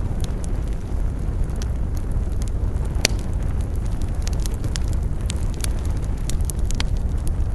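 Wood campfire crackling, with many sharp pops scattered through and one louder snap about three seconds in, over a steady low rumble.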